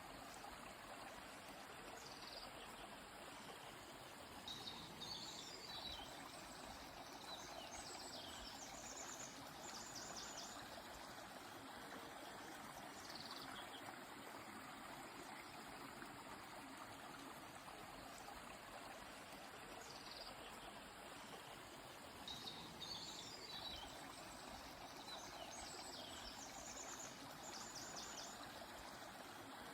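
Faint, steady rush of a flowing river with songbirds calling over it: short high chirps and quick trills come in two bursts, about four to eight seconds in and again a little past twenty seconds.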